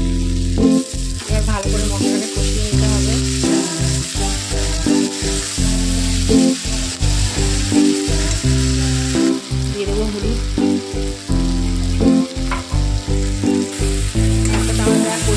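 Sliced onions, tomatoes and spices sizzling in an aluminium kadai while a metal spatula stirs them, over background music.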